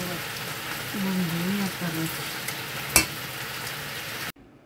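Flour-coated chicken pieces frying in shallow oil in a wok: a steady sizzling hiss. A single sharp click about three seconds in, and the sizzle cuts off abruptly near the end.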